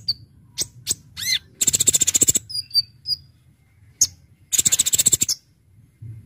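Kolibri ninja (konin) sunbird singing: sharp, high single chips and a short whistled note, broken by two fast, rattling trills of rapid-fire notes, one about one and a half seconds in and one past four and a half seconds.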